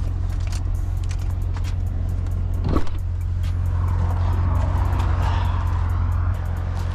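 Chevrolet C7 Corvette's V8 running at a steady idle, a deep even drone. A brief rising sound comes about three seconds in, and a swell of hiss from about four to six seconds.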